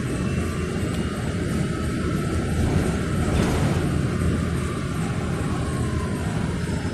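Electric bus riding along, heard from inside the cabin: a steady rumble of tyres and road, with a faint whine that slowly rises and falls and a brief swell of noise about halfway through.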